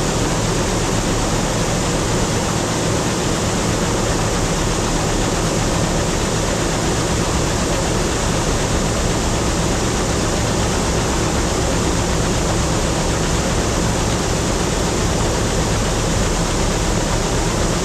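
Old 4400 combine harvester running steadily while harvesting wheat: a constant engine drone under a dense, even rush of machinery noise, with no change in speed or load.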